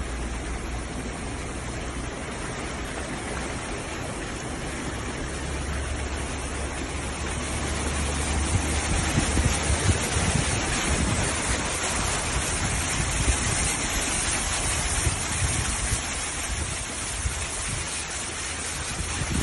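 Steady rush of water, the noise of heavy rain and flowing floodwater, growing louder about eight seconds in.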